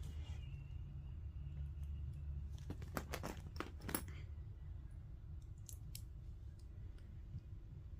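Small plastic Lego pieces clicking as they are handled and pressed together: a quick run of sharp clicks about three seconds in, then a few scattered ticks, over a low steady hum.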